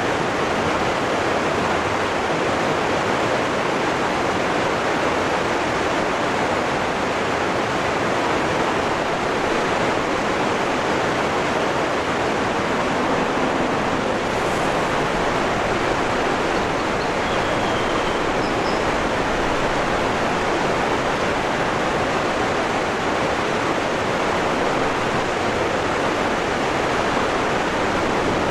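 Waterfall rushing steadily, a constant even wash of falling water. A couple of faint, short high-pitched peeps come about two-thirds of the way through.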